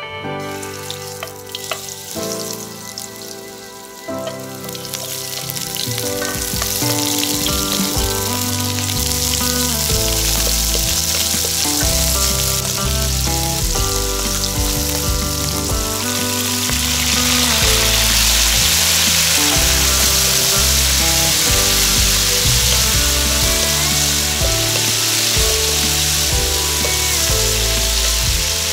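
Pork belly pieces sizzling as they fry in a pan, stirred with a wooden spatula. The sizzle builds over the first few seconds and gets louder again about two-thirds of the way through. Background music plays throughout.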